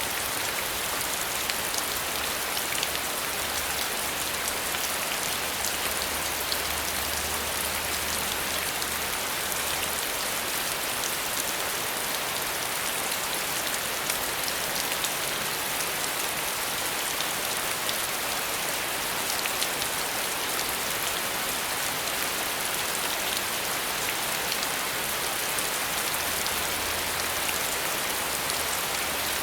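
Steady rain falling and pattering on surfaces, an even hiss made of many small drop ticks with no letting up.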